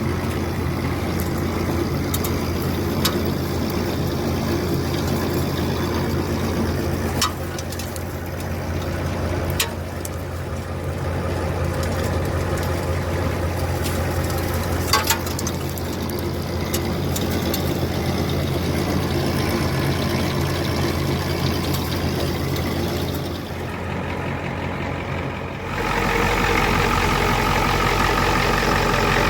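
1990 Ford F350 dually dump truck engine idling steadily, with a few light clicks. Near the end it steps up to a louder, higher-pitched running.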